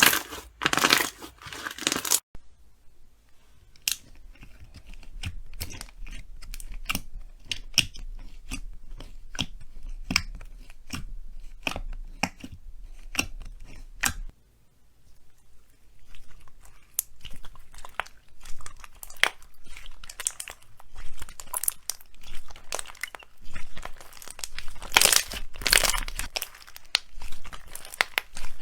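Slime being squeezed and worked by hand, giving a run of crackling, popping clicks. The crackles come thick at the start and again in the last ten seconds or so, sparser in between.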